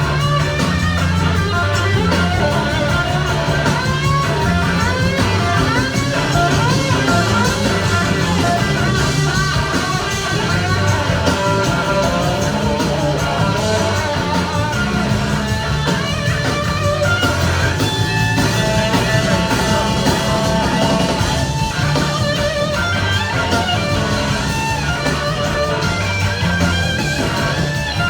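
A live rock band playing an instrumental passage. An electric guitar leads with gliding, bending notes over steady bass and drums.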